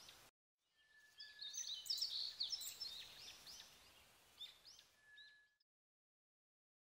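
Faint ambient birdsong, many small birds chirping in quick, short calls, starting about a second in and fading out a little after five seconds.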